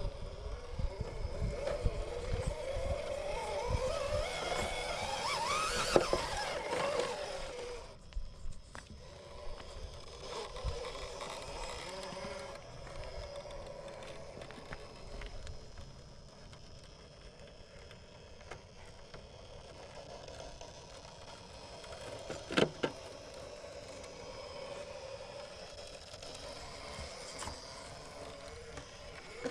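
RC rock crawler's electric motor and geartrain whining as it crawls, rising in pitch over the first several seconds and then running lower and quieter, with small clicks of the tyres and chassis on rock and one sharp knock about two-thirds of the way through.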